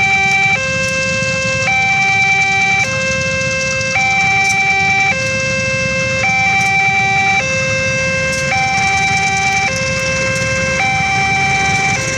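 Railway level crossing's electronic warning alarm sounding a steady two-tone pattern, switching between a lower and a higher tone about once a second. It is the signal that a train is approaching and the crossing is closed. A low rumble lies underneath.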